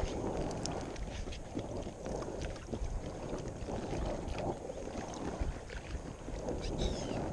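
Water splashing and lapping around an inflatable kayak, with gusts of wind rumbling on the microphone.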